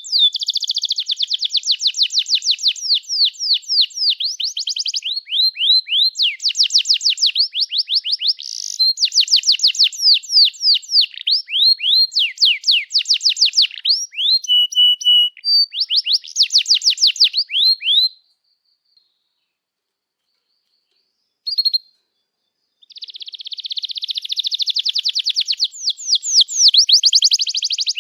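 Domestic canary singing a long song of fast trills, each a rapid string of high downward-sweeping notes, switching from one trill type to the next. It breaks off about two-thirds of the way through, with one short note in the pause, and resumes a few seconds later.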